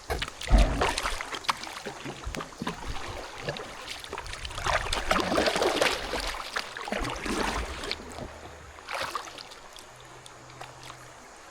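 Kayak paddle strokes in the water: irregular splashes and dripping, with a low thump about half a second in.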